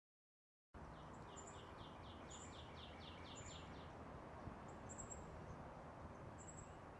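Faint woodland ambience after a moment of silence: a bird sings a quick run of repeated downslurred notes, about four a second, for a few seconds. Thin, high chirps are scattered throughout over a steady hiss.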